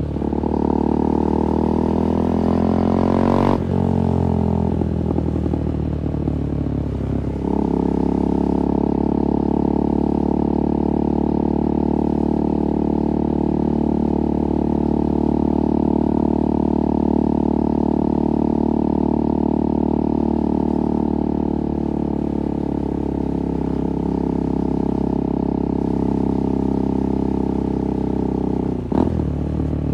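2024 KTM 390 Duke's single-cylinder engine through an IXIL slip-on exhaust, ridden under acceleration with rising pitch, broken by a quick gear shift about three and a half seconds in. From about seven seconds in it settles into a steady cruise, with another brief shift just before the end.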